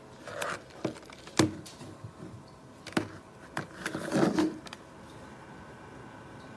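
A series of sharp knocks and clattering, a handful of hits over about four seconds, with a faint steady hum underneath.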